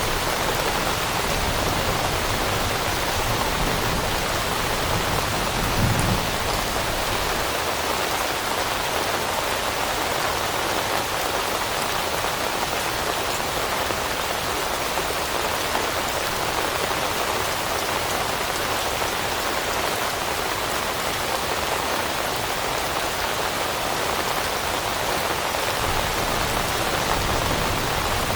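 Steady rain falling, an even dense hiss of drops, with a brief low thud about six seconds in.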